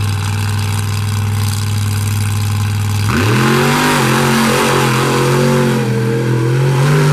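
Monster truck engine held at a steady low rumble at the start line. About three seconds in it goes to full throttle as the truck launches, the pitch climbing quickly and then staying high and loud.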